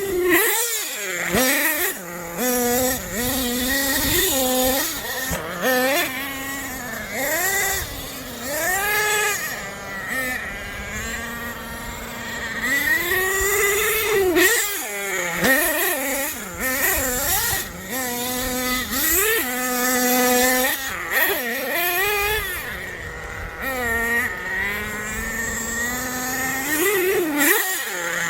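Small nitro engine of a radio-controlled monster truck revving up and down over and over, its high-pitched buzz rising and falling as the truck speeds up and slows.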